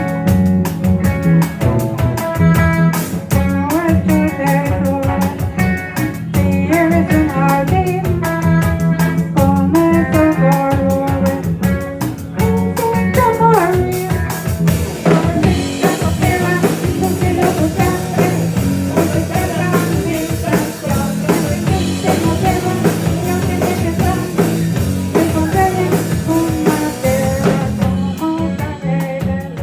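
Live rock band playing: electric guitar melody over bass and a drum kit. The cymbals come in about halfway through and drop out just before the end.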